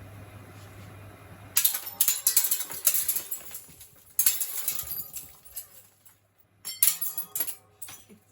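Fluorescent tube shattering against the blades of a running ceiling fan: a steady fan hum, then about a second and a half in a sudden crash of breaking glass, followed by several more bursts of clattering and tinkling glass fragments.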